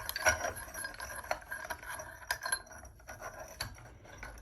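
Scattered light clicks and clinks of small glass and metal parts being handled and fitted to a ceiling fan's light kit.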